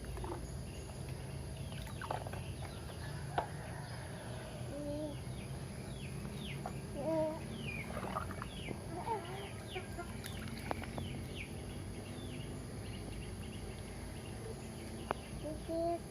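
Birds calling in the background: short, low, clucking calls now and then, and quick high downward chirps, mostly in the middle of the stretch, over a steady high hum of insects, with a few sharp clicks.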